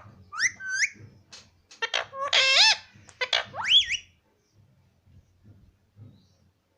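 Indian ringneck parrot giving a run of shrill, high-pitched chirps and whistled calls, several sliding upward in pitch, stopping about four seconds in.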